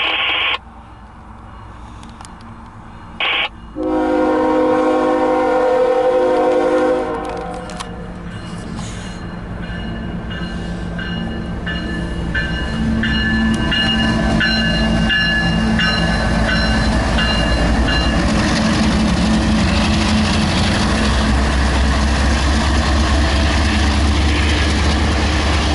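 Freight locomotive horn sounding a short toot and then a loud blast of several notes held for about three seconds, followed by a rapidly ringing bell. Then the lead diesel locomotives of a loaded coal train pass close by, and the rumble of engines and wheels builds and stays loud.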